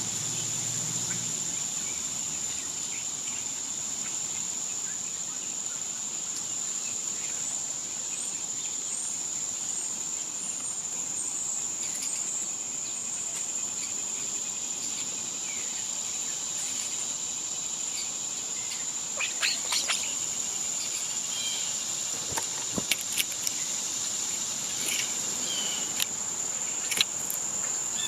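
A steady, high-pitched insect drone from summer insects, with a few short bird chirps. Scattered sharp taps and clicks come in the second half.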